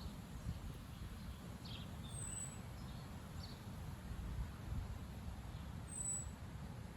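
Strong wind buffeting the microphone as a steady low rumble, with a few faint bird chirps above it.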